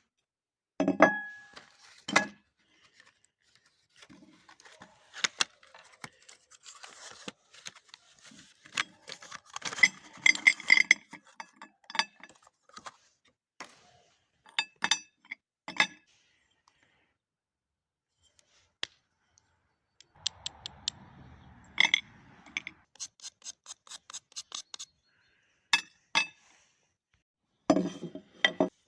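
Hard objects being handled: scattered sharp clicks and clinks with a few scrapes, separated by quiet gaps. A brief low rustling slide comes about two-thirds of the way in, followed by a quick run of ticks.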